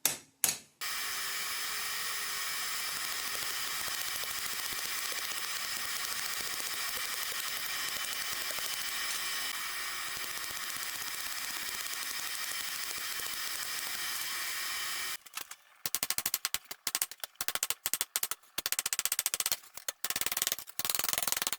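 A steady hiss with a faint high whine for about fourteen seconds, which cuts off abruptly, then a rapid run of light hammer blows on hot steel as the untwisted flipper is straightened.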